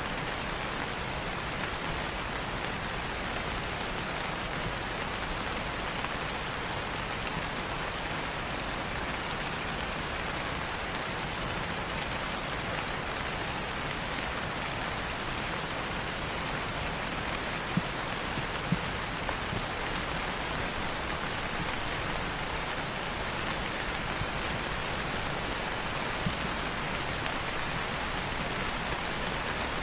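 Steady rain falling on leaves, an even hiss with a few louder single drops ticking now and then.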